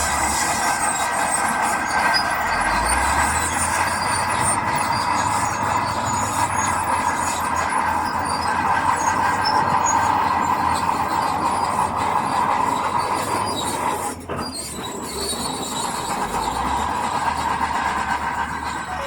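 Heavy earthmoving machinery working, with a steady, high metallic squeal over the running machine. The sound dips briefly about fourteen seconds in.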